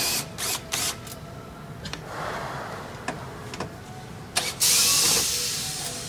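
Steel parts of a wood stove being handled: clicks and knocks of metal on metal, a noisier stretch about two seconds in, and a loud rasping scrape near the end.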